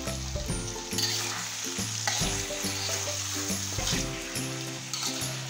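Chicken, onions and spices sizzling in a black wok as a metal spatula stirs and scrapes through them, the meat frying down until its juices dry off.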